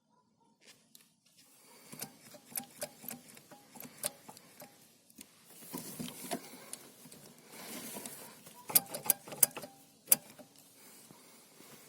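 Gear lever of a Daewoo Nexia's manual gearbox being worked back and forth, its shift linkage clicking, clunking and rattling irregularly. The loose play points to a worn shift linkage.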